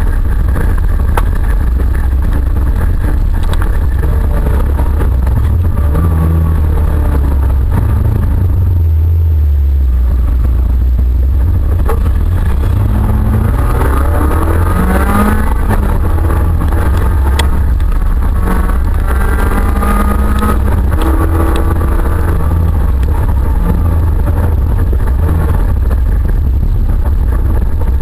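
Autocross car's engine running hard, heard from inside the stripped, roll-caged cabin: a heavy low drone throughout, with the engine note rising and falling as the driver revs and lifts, and a few sharp knocks.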